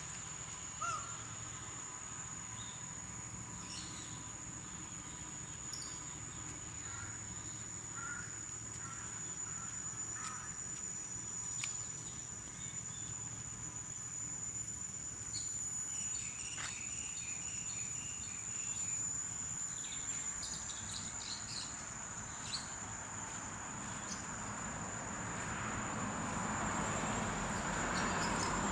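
Insects trilling in one steady, high-pitched, unbroken drone, with scattered short bird chirps over it. A hiss grows louder near the end.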